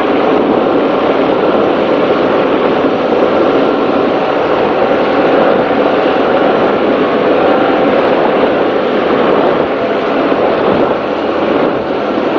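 Offshore racing powerboat running at speed, heard onboard: the engines' steady drone mixed with rushing wind and water noise off the hull, loud and unchanging.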